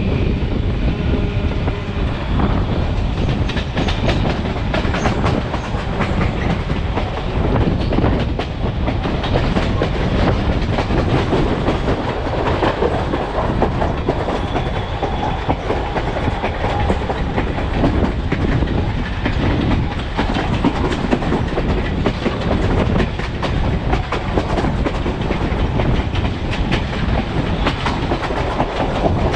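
Passenger railroad coach rolling along the track: steel wheels clicking over rail joints over a steady rumble, heard from right outside the car's side.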